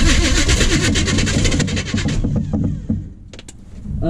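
1980 Chevy K30 pickup's engine being cranked over by the starter with a fast, even rhythm, not catching, until the cranking stops about two seconds in. A couple of sharp clicks follow near the end.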